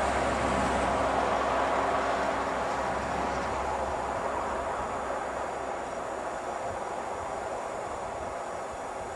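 Express passenger train running away into the distance, its steady rumble on the rails slowly fading. A low hum underneath dies away about four seconds in.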